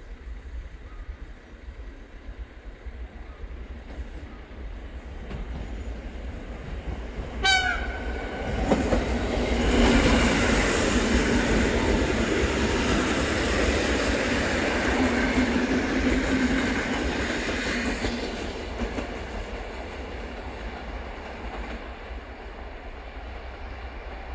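A regional electric multiple unit passing close by on the tracks. It gives a brief horn toot about seven and a half seconds in, then the rush and wheel noise build quickly, are loudest around ten seconds in, and fade after the train has passed.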